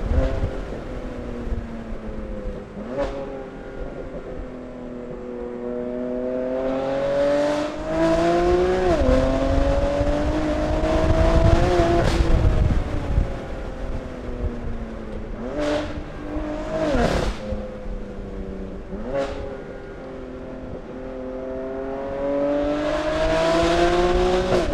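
BMW S55 twin-turbo straight-six, fitted with an equal-length titanium exhaust and 200-cell downpipes, pulling through the gears as heard from inside the cabin. The engine note climbs under acceleration and drops at each gear change, several times over, with sharp cracks at the shifts.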